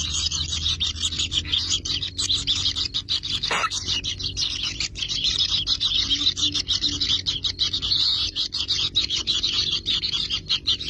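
Kingfisher nestlings in their nest burrow giving a continuous, rapid, raspy begging chorus, over a steady low hum.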